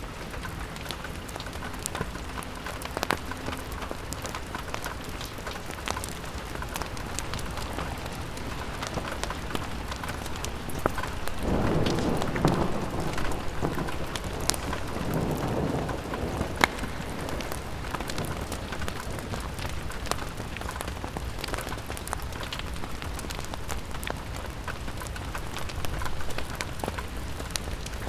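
Steady rain pattering on window glass, with scattered sharp crackles from a fireplace. About eleven seconds in, a low rumble of distant thunder swells and dies away over about five seconds.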